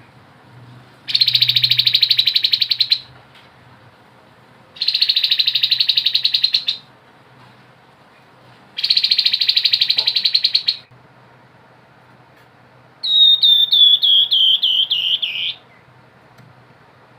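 Grey-headed babbler singing: three rapid buzzing trills (the 'ngebren' song), each about two seconds long and a couple of seconds apart, then near the end a quick run of about nine whistled notes, each falling in pitch.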